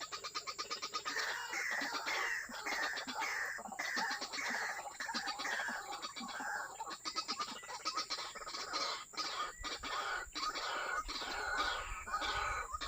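White-breasted waterhen (ruak-ruak) calling: a long run of quickly repeated call notes.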